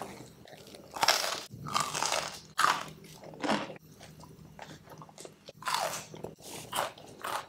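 A person biting and chewing pizza and a breadstick, with crunching in irregular short bursts.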